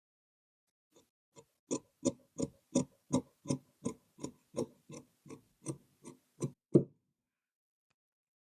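Tailor's shears cutting cloth or pattern paper in a steady run of about fifteen snips, roughly three a second, which stops abruptly near the end.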